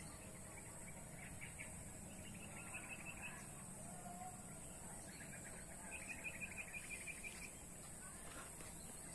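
Bird chirping in rapid trills of short, quick notes, three runs, over faint steady outdoor background noise.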